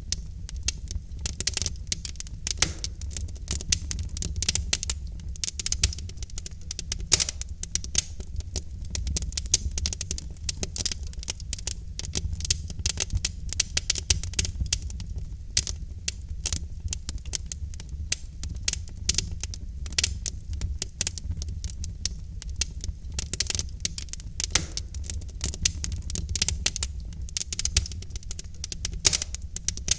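Wood logs burning in a fireplace, crackling constantly with many small sharp pops over a low steady rumble of the flames.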